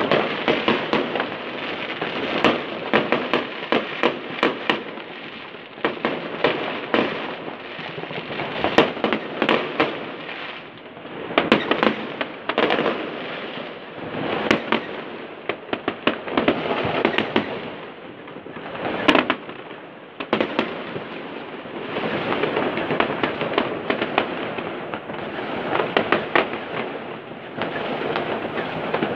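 Fireworks going off all around: a steady crackle with many sharp bangs, overlapping and coming in clusters of rapid cracks.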